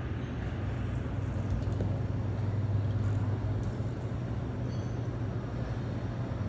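Steady low engine drone of an aircraft tow tractor running as it tows an airliner on the ramp, with a constant hum and even noise above it.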